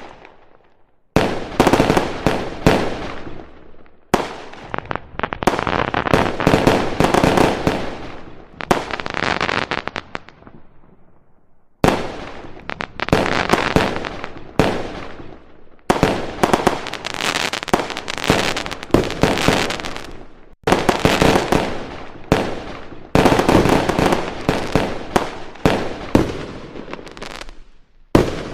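Aerial fireworks display: rapid volleys of bangs and crackling come in waves a few seconds long, each broken by a brief lull.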